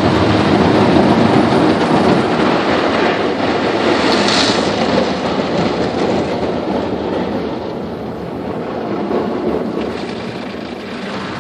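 Automatic car wash heard from inside the car: a loud, steady rush of water spray and scrubbing on the car's body, easing off over the last few seconds.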